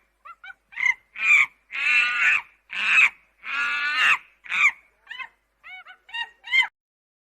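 A series of about a dozen honking animal calls. It opens with a few short faint calls, grows to long loud ones in the middle, and ends with shorter, weaker calls.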